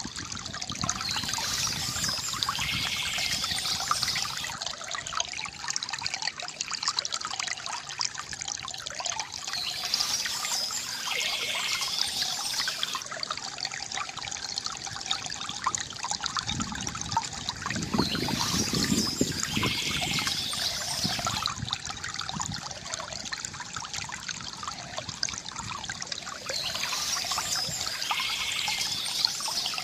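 A stream trickling and splashing steadily, with bird song. A burst of chirping comes back about every eight and a half seconds, four times.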